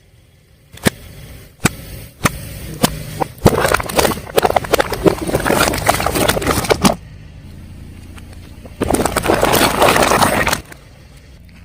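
Car tyre rolling over and crushing crunchy objects: several sharp single snaps, then a long stretch of dense crackling and crunching, and a second burst of crackling near the end, over the low hum of the car's engine.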